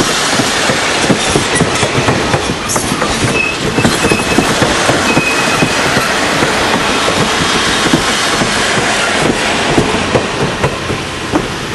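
Stainless-steel passenger cars of a dinner train rolling past close by: a steady rumble of steel wheels on rail with an irregular clickety-clack as the trucks cross the rail joints.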